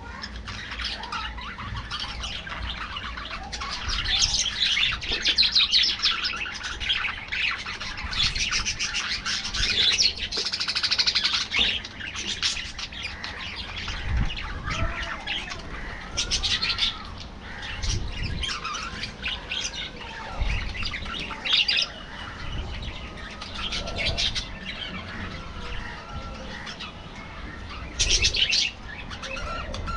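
A flock of budgerigars chattering with constant overlapping chirps, broken now and then by louder harsh squawk bursts. A few dull thumps sound beneath them.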